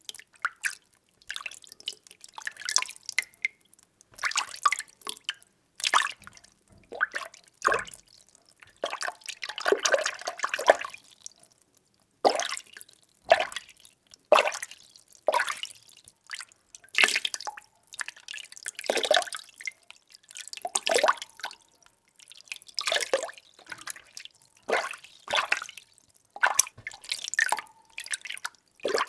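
Water being stirred: a run of short swishing splashes, about one a second, with a longer churning stretch about a third of the way in.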